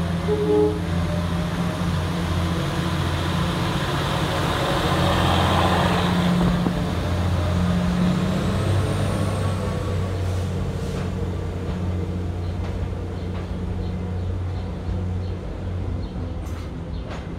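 Work train's diesel locomotive engine running with a steady low hum as the train slowly hauls unpowered new R211A subway cars past, the steel wheels rumbling on the rails. The rumble swells about five seconds in, and a few sharp clicks of wheels over rail joints come near the end.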